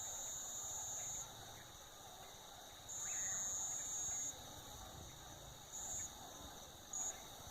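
Night insect chorus of crickets: several steady, high-pitched trills run throughout. A louder, even higher buzz from one insect starts and stops abruptly, once for about a second at the start, once for about a second and a half in the middle, and twice briefly near the end.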